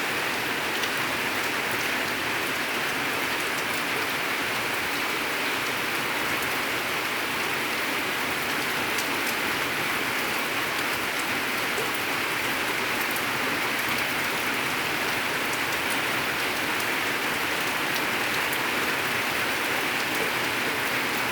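Steady, consistent rain falling on surfaces, an even hiss with fine scattered drop ticks.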